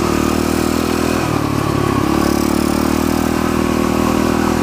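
Pitster Pro pit bike's single-cylinder four-stroke engine running under throttle while being ridden, the revs easing off briefly a little over a second in and then holding steady.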